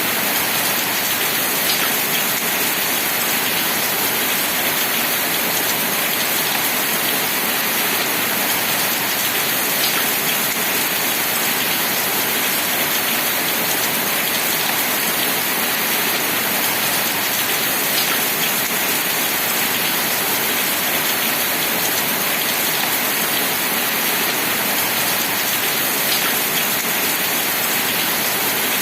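Steady, dense rain falling without letup, with a single sharper drop standing out about every eight seconds.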